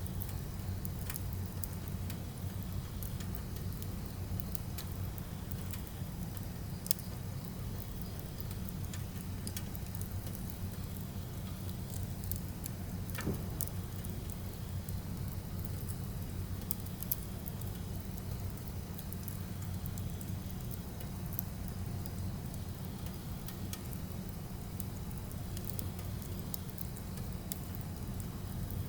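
Firewood burning: a steady low rush of flames with scattered sharp crackles and pops, a few louder snaps standing out.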